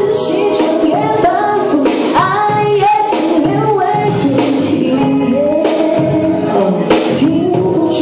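A woman singing a pop song live over backing music with a steady beat.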